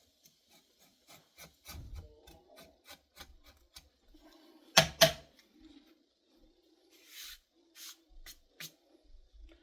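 Leather edge beveler shaving the edge of a leather strap in short repeated strokes, about three a second. About five seconds in come two sharp knocks, the loudest sounds here, and then a few more scraping strokes.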